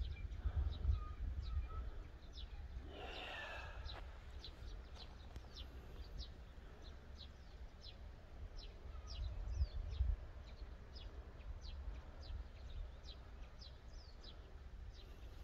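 A small bird chirping over and over, short high notes about twice a second, over a low steady rumble outdoors.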